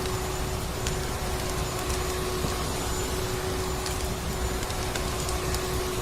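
Vacuum cleaner motor running steadily, a constant droning hum over a rushing whoosh of air, with faint scattered crackles of a wood fire mixed in.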